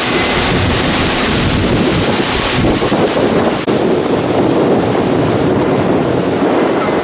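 Strong wind buffeting the microphone: a loud, continuous rumbling rush with no break.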